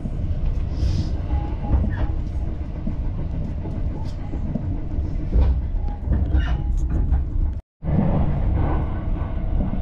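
A moving train heard from inside the passenger car: a steady low rumble with scattered clicks from the wheels and track. The sound cuts out completely for a moment about three-quarters of the way through.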